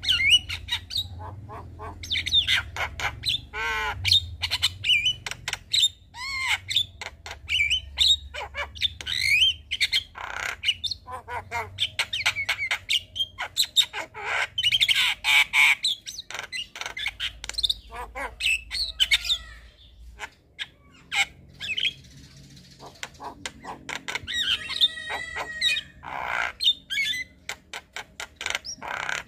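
Javan myna (jalak kebo) singing: a rapid, varied run of whistles, chirps, clicks and harsh squawks, with a harsher, buzzier stretch near the end.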